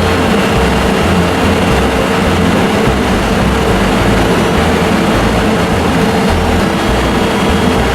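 Electric train equipment at a station running with a steady mechanical roar and a constant hum.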